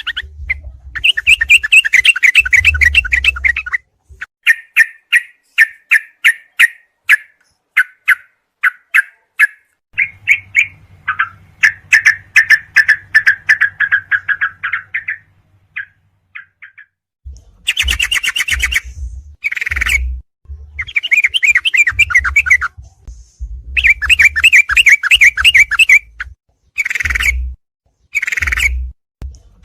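Recorded yellow-vented bulbul (trucuk) song played back loud as a birdsong 'masteran' training track: rapid bubbling, chattering phrases with short gaps between them and a pause past the middle, and a low hum under the louder phrases.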